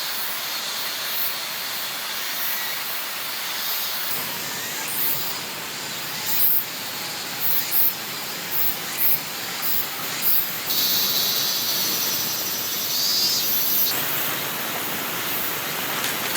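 Steady rushing hiss of a river flowing through the forest, with scattered short clicks and knocks in the middle, and a high, even buzz from about eleven seconds in that lasts about three seconds.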